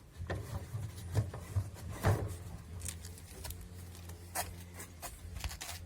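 Scattered knocks and clicks of washing-machine parts being handled during disassembly, over a steady low hum.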